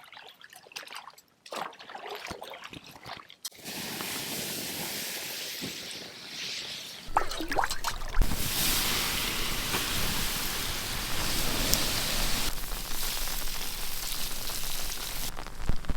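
Water rushing in a steady hiss, starting about three and a half seconds in and growing louder around seven seconds, with a few knocks along the way. Most likely water taken from a rain puddle being poured or sloshed.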